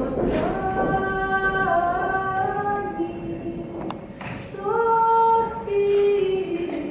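A woman singing a slow melody of long held notes, each phrase stepping down in pitch.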